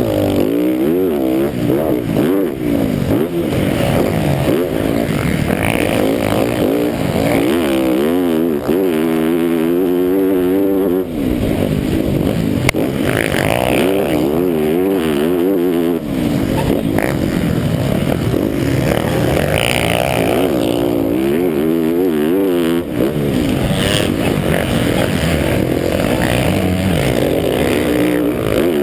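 MX1 motocross bike's engine heard from an onboard camera, its revs climbing and falling again and again as the rider accelerates and backs off, with a few short dips where the throttle is shut.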